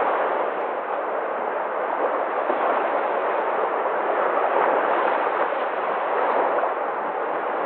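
Sea waves, a steady rushing roar of surf that swells and eases slightly without any single distinct crash.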